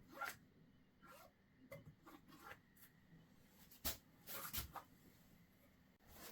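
Faint, scattered rubbing and clicking of small parts being handled by hand, with a sharper click about four seconds in followed by a brief flurry of rustling.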